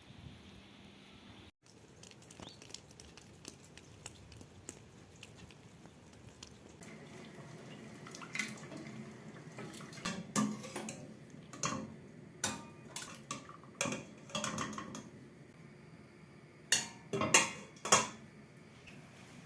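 Kitchen work: dishes and utensils clinking and knocking, growing busier from about halfway through, with a few sharp clinks near the end and some water in the background.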